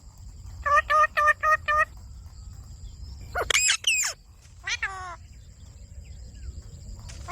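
Indian ringneck parakeet calling: a quick run of about six short, evenly pitched notes, then a louder squawk about halfway through and a falling call a second later.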